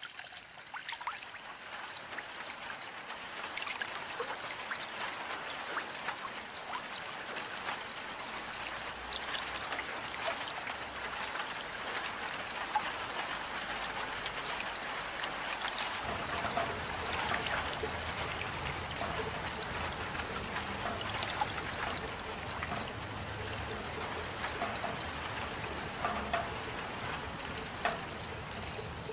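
Steady rain falling, a dense patter of individual drops with some trickling water. A faint low rumble joins about halfway through.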